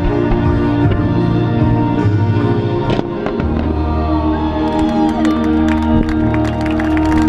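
Fireworks display set to loud music: steady music with a sharp firework bang about three seconds in, then a dense run of crackles from about halfway through.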